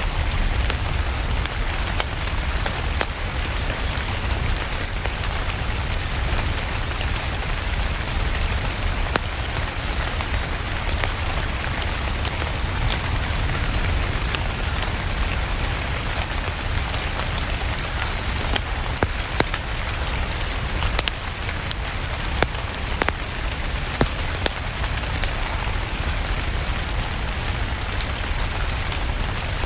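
Steady rain with a low rumble underneath, dotted with scattered sharp crackles of a wood fire.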